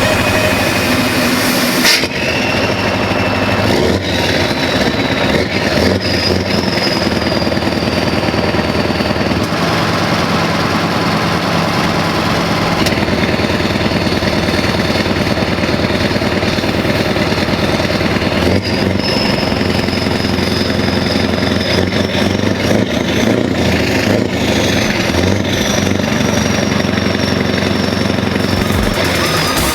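Scania R500 V8 truck engine idling steadily through a loud exhaust.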